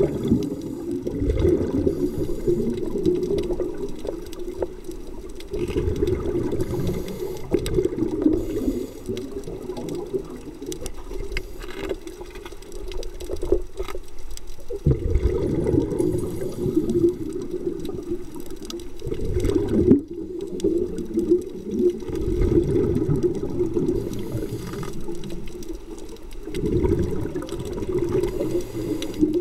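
Scuba diver breathing through a regulator underwater: bursts of bubbling exhaled air lasting a few seconds each, coming every few seconds, with quieter gaps between.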